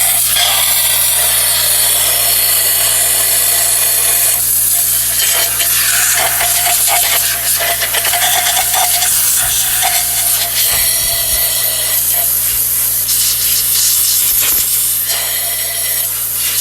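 Compressed air hissing steadily from an air blow gun, blowing water out of the engine's spark plug wells, where pressure-washer water had shorted the plugs and coils.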